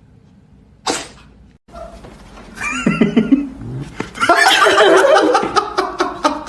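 A pet animal making repeated calls, with people laughing over it, loudest in the second half; a short noisy burst comes about a second in.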